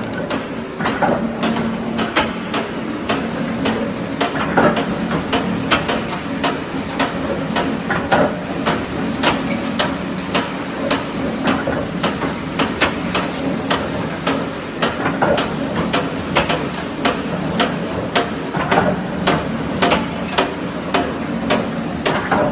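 Glass mosaic machine running, with a steady hum and a regular clacking about twice a second.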